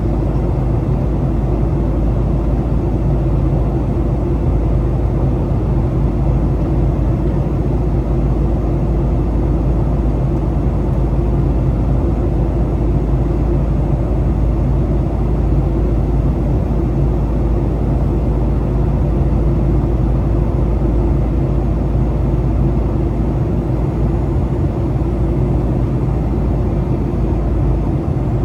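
Steady cabin noise inside a Boeing 737: a low engine and airflow rumble with a faint steady hum, easing slightly in the lowest range near the end.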